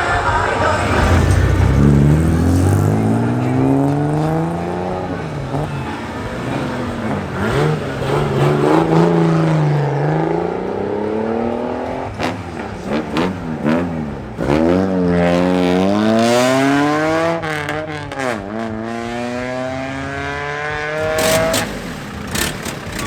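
A car engine is revved hard over and over, its pitch climbing and dropping several times, with sharp cracks in places, as modified classic cars leave a car meet.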